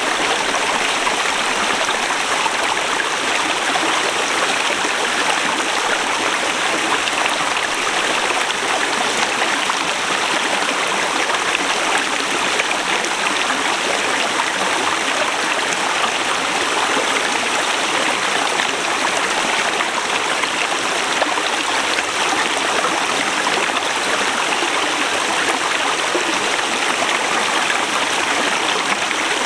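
Forest river rushing steadily over rocks: a continuous, even wash of flowing water.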